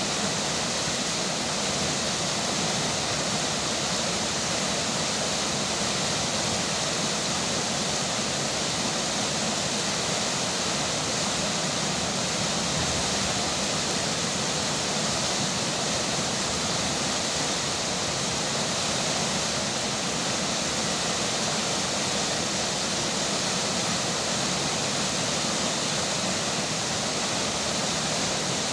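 River water rushing steadily with rain falling, a constant even noise that does not change.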